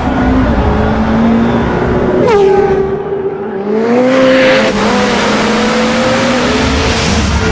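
Car engine revving hard under load with tyres squealing. The engine note drops sharply a little over two seconds in, then climbs again.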